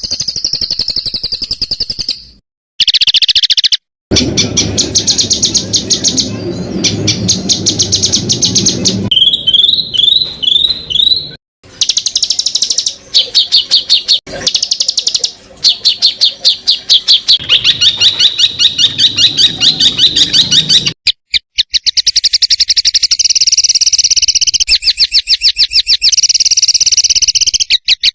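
Songbird singing in rapid-fire runs of sharp, high repeated notes, many a second, the fast chattering 'tembakan' phrases used in masteran bird-song training. It comes in several stretches separated by brief cuts to silence, with a short series of rising whistled notes about ten seconds in.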